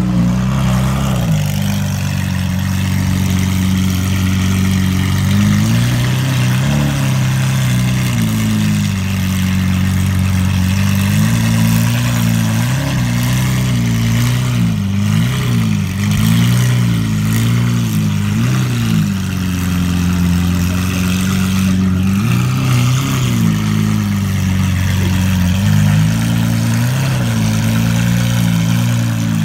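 Lamborghini Aventador SVJ Roadster's naturally aspirated V12 running at idle, with several brief, light rises in revs in the middle and near the end.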